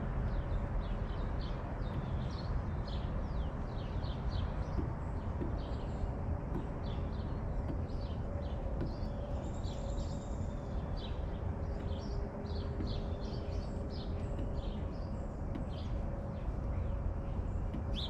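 Small birds chirping repeatedly in short, quick notes over a steady low rumble.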